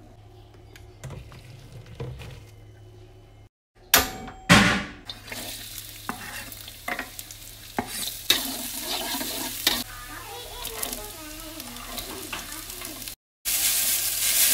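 Stir-frying in a wok: chopped shallots and garlic sizzling in hot oil, then rice vermicelli with carrot tossed with a spatula that scrapes and clicks against the pan. Two loud sudden bursts come about four seconds in, and the sound drops out briefly twice.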